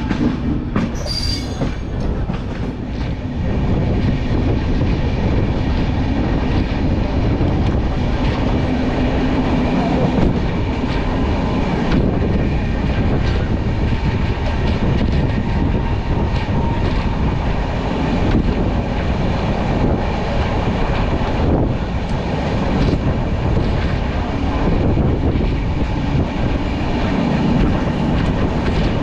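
Passenger train running at speed, heard from an open coach doorway: a steady rumble and clatter of wheels on the rails. There is a short high-pitched sound about a second in.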